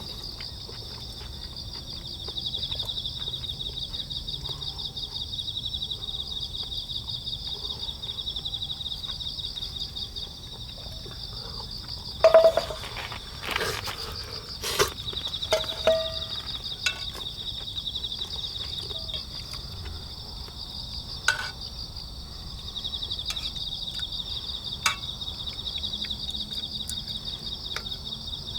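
Steady chorus of crickets trilling in a fast, even pulse. A few sharp metallic clinks, some with a short ring, come about halfway through and are the loudest sounds, with two more single clicks later.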